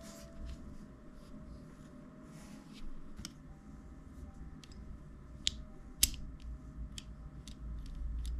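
Small clicks and taps of airsoft gas-shotgun internals being handled and seated in the frame during reassembly. The brass cylinder and other metal parts knock against each other. Two sharp clicks about five and a half and six seconds in are the loudest.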